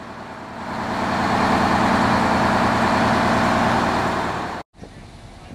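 Detroit Diesel 8V71 two-stroke V8 diesel of an American LaFrance fire engine coming up to full throttle, building over about a second and then running loud and hard before cutting off suddenly; a quieter steady background follows.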